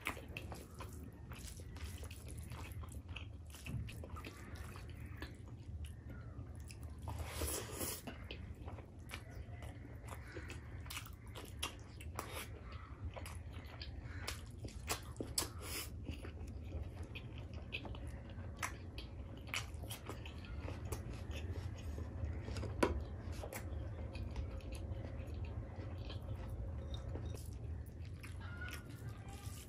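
Close-up eating sounds: a person chewing and biting with many short, wet mouth clicks and ticks, over a steady low hum. One sharper click stands out late on.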